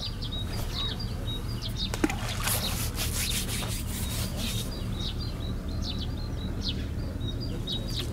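Small birds chirping, short high calls repeated again and again over a steady low rumble. A sharp click about two seconds in is followed by a couple of seconds of rustling.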